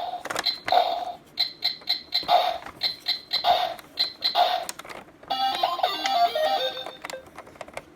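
Electronic Nerf target's game sound effects from its small speaker: a run of short repeated electronic beeps with sharp clicks, then about five seconds in a brief electronic jingle.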